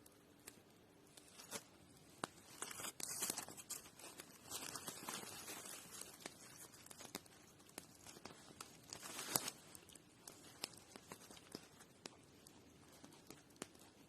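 Irregular rustling and crunching with scattered sharp clicks and taps, louder in a few short stretches.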